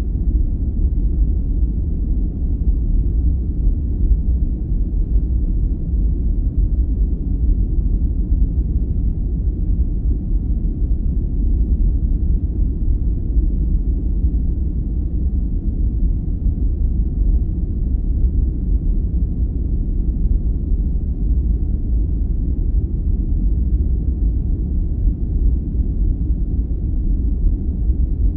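Steady sleep-aid noise, a deep, even rumble heavy in the bass with almost no treble, closer to brown noise than hissy white noise.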